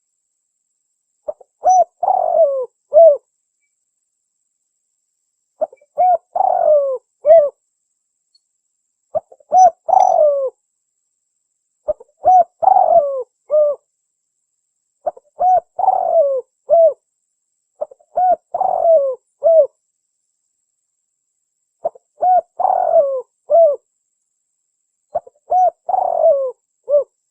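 Spotted dove (tekukur) cooing: a short phrase of several coos repeated about every three seconds, with silence between phrases. This is the lure call used to draw in wild doves.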